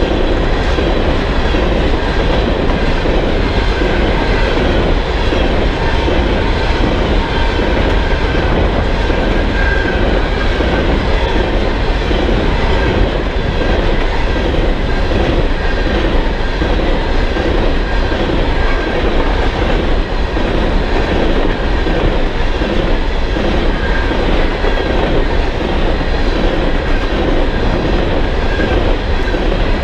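Freight train of aluminum coal hopper cars passing close by: a steady, loud rumble and clatter of steel wheels on the rails, with a faint high wheel squeal coming and going.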